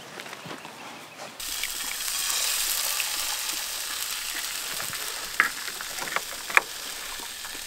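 Sausage links and an egg sizzling in a frying pan, a steady hiss that starts suddenly about a second and a half in, with a few sharp ticks and pops over it.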